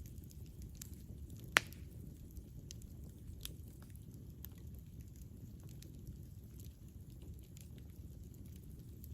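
Campfire burning with a steady low rumble and scattered crackles and pops from the burning wood, one sharp pop louder than the rest about one and a half seconds in.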